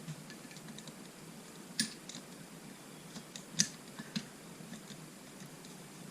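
Quiet, scattered clicks and taps from small engine parts and hand tools being handled, with three sharper clicks about two, three and a half, and four seconds in.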